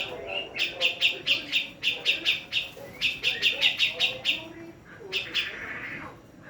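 Female cucak jenggot (grey-cheeked bulbul) calling: quick runs of short, evenly repeated chirps at about five a second, broken by short pauses, then a harsher, drawn-out rasping call near the end.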